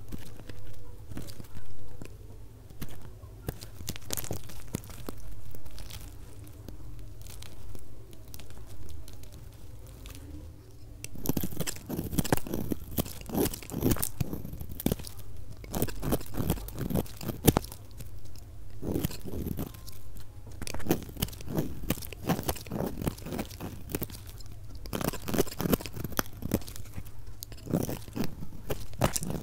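A blade cutting through bars of soap, giving crisp crunching and crackling clicks, played at double speed. The clicks are sparse and soft at first, then become dense and much louder from about eleven seconds in.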